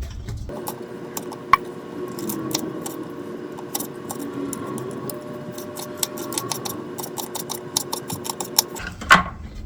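Hot peppers being cut up: a run of sharp, irregular clicks from the blade, coming faster near the end, over a steady low hum.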